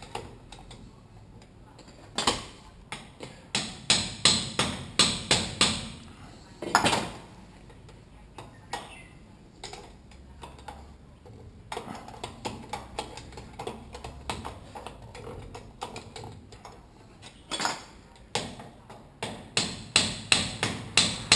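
Hammer blows on metal, driving a damper valve body out of a 1992 Honda CR250 upside-down fork leg where it sits stuck tight on the damaged section. The blows come in quick runs of several a second, with lighter scattered taps and short pauses between.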